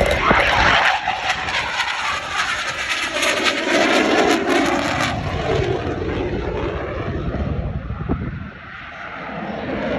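An aircraft's engine noise as it flies past: loud for the first five seconds with the pitch dropping as it passes, then fading, dipping a little after eight seconds and building again near the end.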